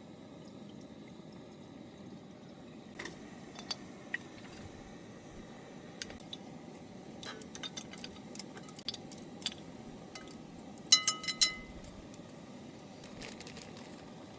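Scattered light clicks and taps of tableware being handled, with a quick run of three or four ringing clinks about eleven seconds in, the loudest moment.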